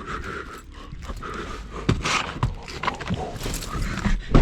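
Rustling and handling noises with several sharp clicks and knocks, ending in a loud heavy thud near the end.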